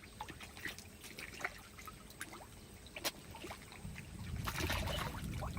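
Small splashes and trickling water at a pond's surface, with scattered drips, and a louder low rumble of disturbed water joining about four seconds in.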